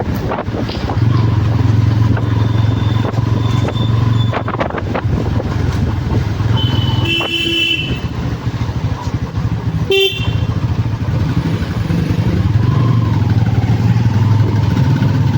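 Motorcycle engine running steadily while riding through traffic. Vehicle horns honk, one held for about a second around the middle and a short toot a couple of seconds later.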